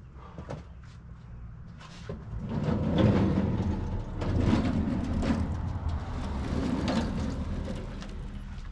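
A vehicle's engine running steadily, with a louder rushing noise that rises and falls several times from about two seconds in.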